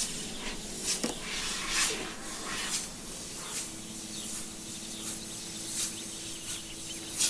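A step drill bit boring through a rubber plug, giving a rough, hissing rasp in uneven strokes over the faint hum of the drill.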